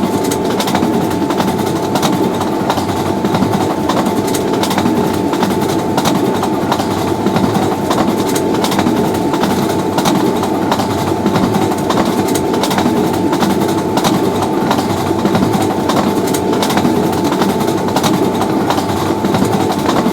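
A train passing at speed: a steady roar of wheels on rails with a rapid, irregular clatter of clicks, running on without a break.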